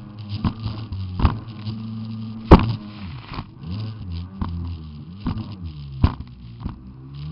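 Jet ski engine running with a buzzing note that rises and falls again and again as the throttle changes, broken by several sharp thumps, the loudest about two and a half seconds in.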